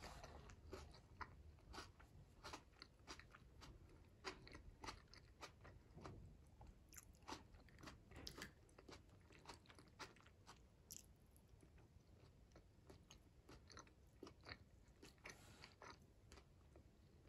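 Faint, close-miked chewing and biting of shrimp: soft wet mouth clicks and smacks at an irregular pace, busier in the first half.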